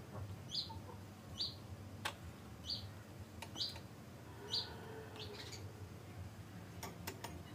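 A bird chirping with short, high, falling notes about once a second, with a few faint clicks about two seconds in and near the end.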